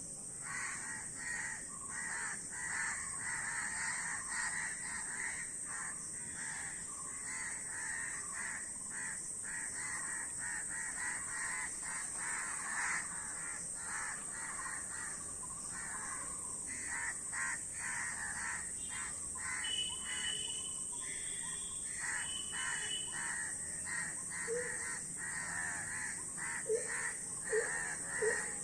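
A flock of crows cawing, many harsh overlapping calls in quick succession, over a steady high-pitched hiss. Some high piping notes come in about two-thirds of the way through.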